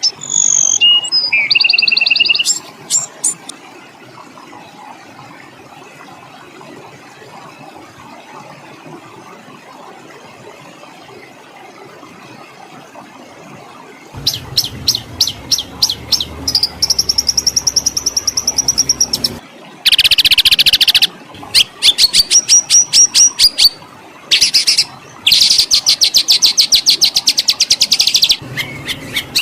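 Songbird song: a few whistled, gliding phrases at the start, then after a quiet stretch of about ten seconds, rapid rattling trills and dense, harsh bursts of fast repeated notes, the hard 'tembakan' shot-like rolls wanted in a fighter bird's song.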